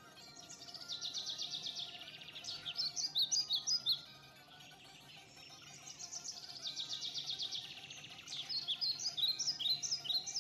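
A songbird singing two song phrases, each a fast high trill that runs into a few louder separate chirping notes.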